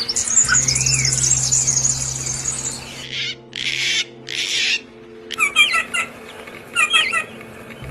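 Small birds singing and calling: a fast, high trill for the first few seconds, then three short, harsh, rasping calls, then clusters of quick repeated chirps near the end. A faint steady low hum runs underneath for the first half.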